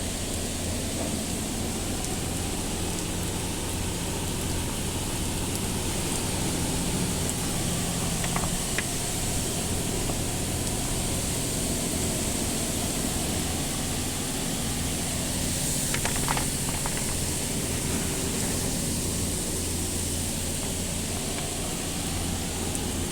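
Car wash equipment running: a steady rushing hiss over a constant low hum, with a few faint clicks.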